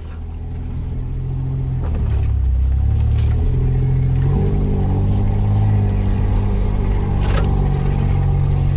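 Off-road 4x4 car's engine pulling it up a rough forest trail, heard from inside the cabin; the engine note builds over the first two seconds and then runs steadily, shifting in pitch with the throttle. A couple of sharp knocks from the car jolting over the ground, about three and seven seconds in.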